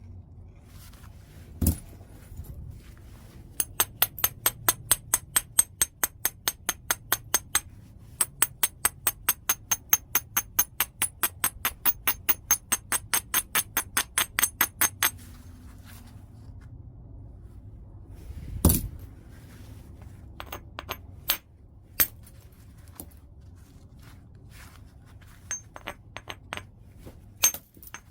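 Knapping a large piece of white chert. A sharp strike on the stone comes early, then a long, even run of quick ringing strokes, about three or four a second. A heavy blow lands about two-thirds of the way through, followed by scattered sharp clicks of stone on stone.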